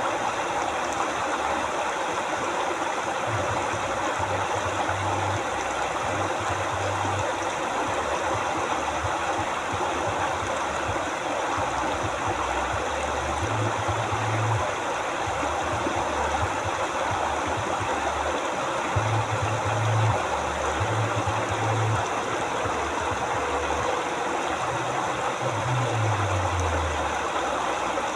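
Flowing river water, a steady rushing and babbling. Underneath it, a low rumble comes and goes irregularly and sinks in pitch near the end.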